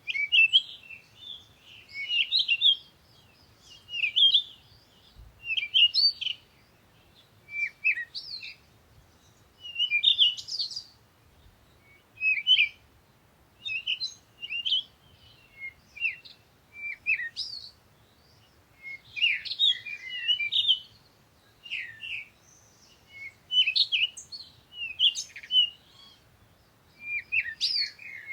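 Songbirds singing: short chirps and trills coming in quick phrases about every one to two seconds, with more than one bird now and then overlapping.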